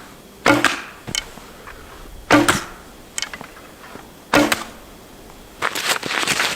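A bow shooting arrows three times, about two seconds apart, each release a sharp string snap. Rustling footsteps near the end.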